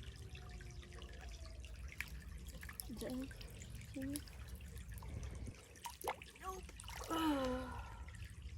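Creek water trickling and dripping, with a few small clicks and several short, faint, falling voice-like sounds about three, four and seven seconds in.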